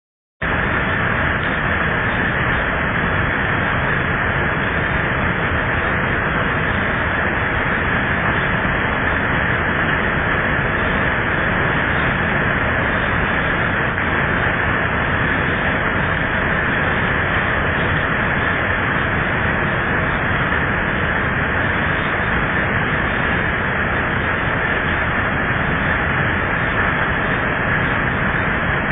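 Heavy thunderstorm rain, with rainwater pouring and splashing off a roof and shed in a steady, unbroken rush.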